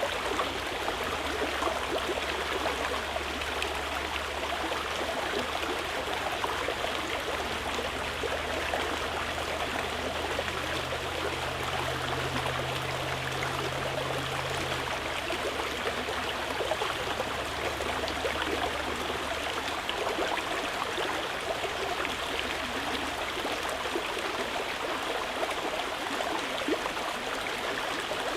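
Stream water flowing and burbling steadily over rocks, with no let-up.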